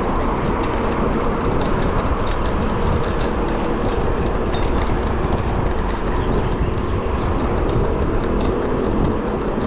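Steady rush of wind and road noise with city traffic running alongside, heard while riding an electric bicycle.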